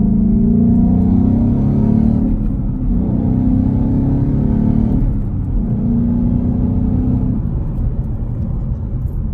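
2017 Ford Mustang GT's 5.0-litre V8 and exhaust pulling through the gears: the engine note rises, drops at a gear change about two and a half seconds in, rises again and drops at another change about five seconds in, then holds steady and eases off near the end.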